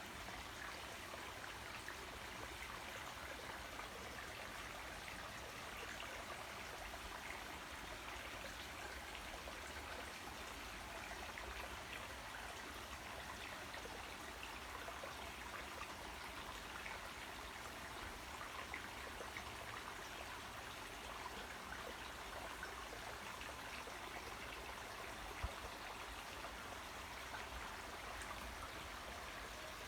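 Waterfall splashing and trickling steadily, an even wash of falling water. A single short click near the end.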